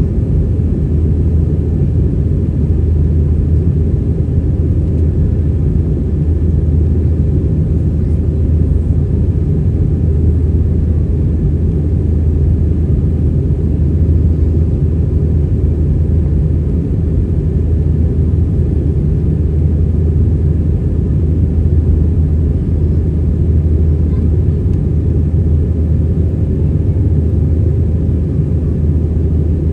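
Steady low rumble of an Airbus A320-200's engines and airflow, heard inside the passenger cabin.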